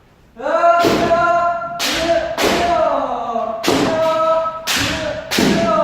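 Kendo trainees' kiai shouts with sharp bamboo shinai strikes and stamping feet, about six strikes in quick succession, starting about half a second in.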